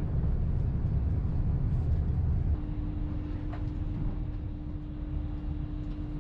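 Hitachi Class 802 bi-mode train running along the main line: a steady low rumble of the train in motion, easing slightly about two and a half seconds in, when a steady hum comes up and holds.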